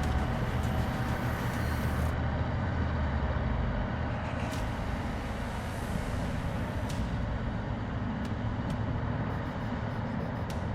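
Bulldozer's diesel engine running steadily with a low rumble, with scattered light clicks.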